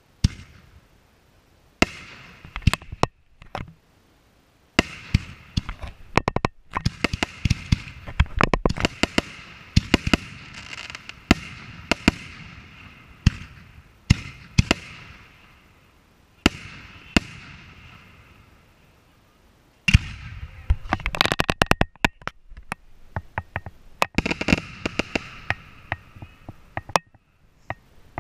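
Aerial firework shells bursting in many sharp bangs, some in quick rapid-fire clusters, with crackling in between. The bangs start about two seconds in, come thickest in the middle, and return in bursts near the end.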